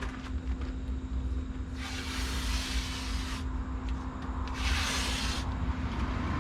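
Tape being pulled off a roll in two long strips, one about a second and a half long and a shorter one near the end, over a steady low rumble.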